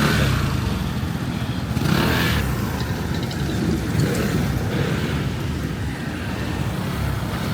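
Road traffic: motorbikes and cars going by, a steady engine rumble with passing swells.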